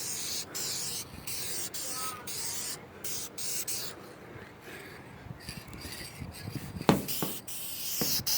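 Aerosol can of high-temperature spray paint hissing in short repeated bursts, with a sharp tap about seven seconds in.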